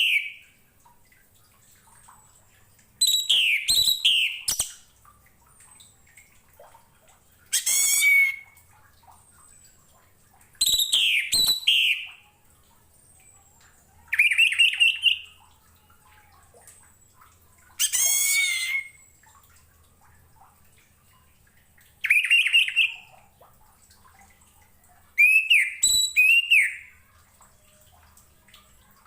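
Orange-headed thrush (anis merah) singing: short, varied whistled phrases about a second long, repeated every three to four seconds with pauses between them.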